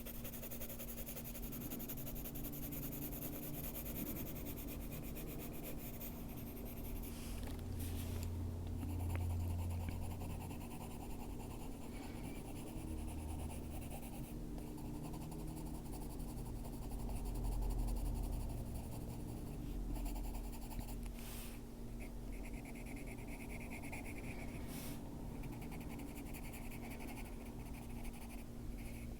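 Faber-Castell Polychromos coloured pencil scratching softly across a colouring-book page in quick shading strokes, over a steady low hum.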